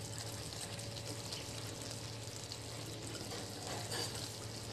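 Soya-chunk gravy sizzling gently in a metal kadhai over a low gas flame, a faint, steady crackle. The spatula starts to move in the pan near the end.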